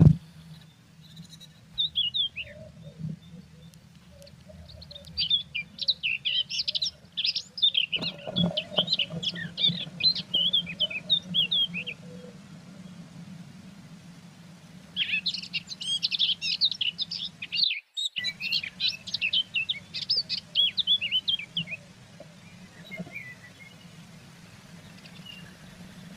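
Blue tits chirping in two long bouts of rapid, high chirps, each several seconds long, over a steady low hum.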